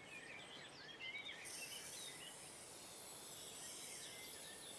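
Faint woodland ambience: small birds giving short chirps and calls, with a steady high hiss joining about a second and a half in.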